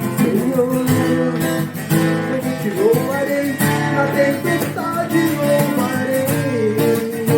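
Acoustic guitar strummed, with a voice singing a wordless melody that glides up and down over the chords.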